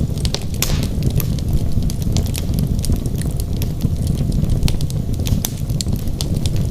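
Wood fire burning in a fireplace: logs crackling and popping with many sharp, irregular snaps over a steady low rumble of the flames.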